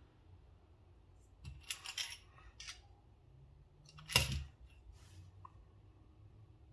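Small mechanical clicks and handling of a freshly reassembled Benchmade Bugout folding knife, with a few light clicks about one and a half to two and a half seconds in and one sharp click a little after four seconds.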